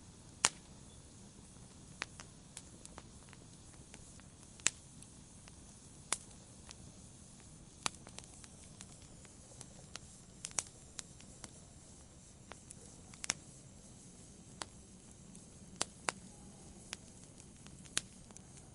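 Wood campfire crackling: sharp, irregular pops, about one a second, over a soft steady hiss.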